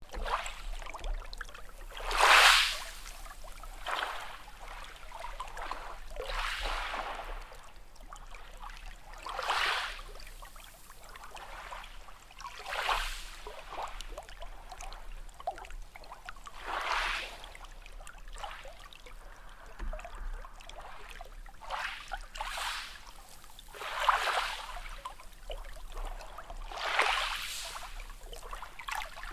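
Small sea waves washing in, one swell of hissing water every few seconds, some louder than others.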